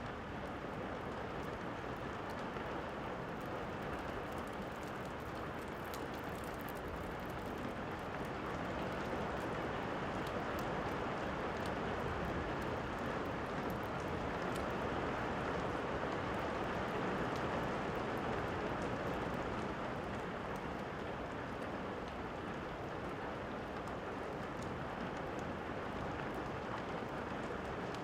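Steady rain falling, swelling a little louder through the middle, with faint small crackles of a log fire scattered through it.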